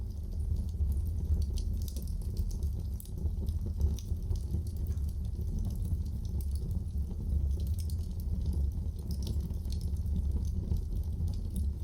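Wood fire burning in a fireplace: a steady low rumble with many small, sharp crackles and pops.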